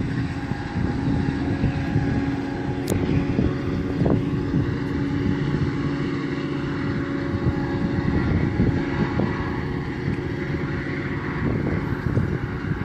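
A Metra diesel train running past at close range: steady engine tones over a low, continuous rumble, with wind buffeting the microphone.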